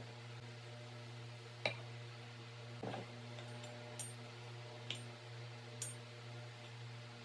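Small hard objects being handled and set down, giving about five light clinks and taps spaced roughly a second apart, over a steady low hum.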